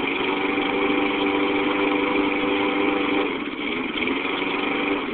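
Kohler engine of a brand-new Ariens self-propelled lawn mower running steadily on its first start, just after starting. Its sound dips briefly a little after three seconds in, then comes back.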